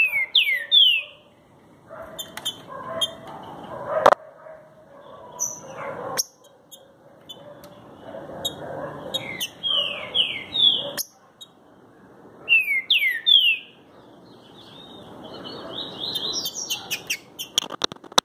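Green-winged saltator (trinca-ferro) singing loud whistled phrases of two or three downward-sliding notes, three times over, the song type the owner calls "truck". A few sharp clicks and a quick run of clicks near the end sound over a rough background noise.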